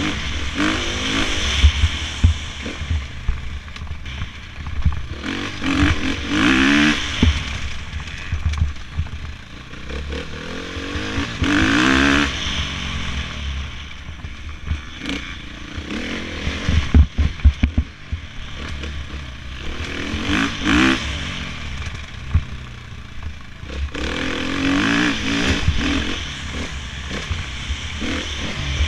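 Dirt bike engines revving, their pitch rising and falling several times over a steady low rumble with knocks.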